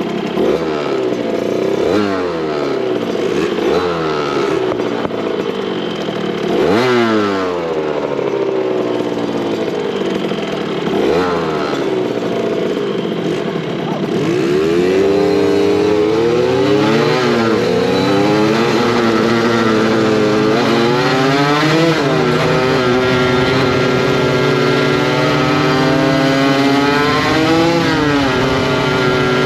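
Motorcycle engine running under way, revving up and dropping back several times as it goes through the gears, then holding higher, steadier revs with the pitch wavering and rising once more near the end.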